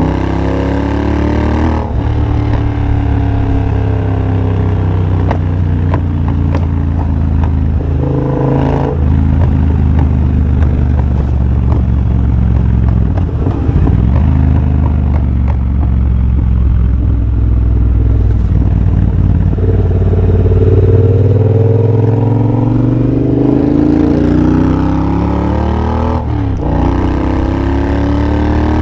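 Triumph Bobber's 1200 cc parallel-twin engine, de-catted through a TEC X-pipe into a Motone shorty exhaust, pulling the bike along under throttle. Its pitch climbs through each gear and drops at the upshifts, about three times.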